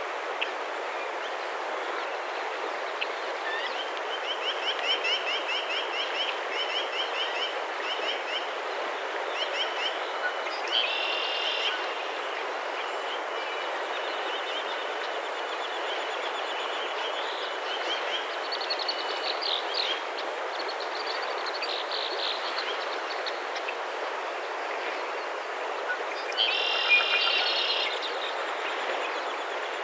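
Small birds singing repeated trilled and chirping phrases over a steady rushing background noise, with a louder, sharper call near the end.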